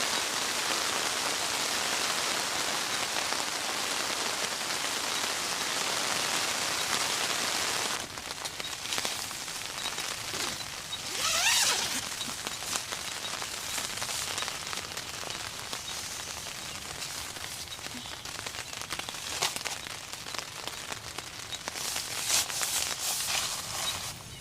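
Steady heavy rain falling. About eight seconds in it cuts to a lighter, quieter scene with scattered drips and taps, and a brief rising sound a few seconds later.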